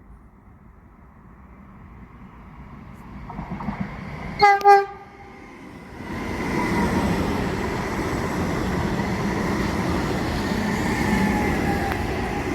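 ETR 521 double-deck electric multiple unit approaching, sounding two short horn blasts about four and a half seconds in. It then passes close by, with loud, steady rolling of its wheels on the rails and a faint squeal.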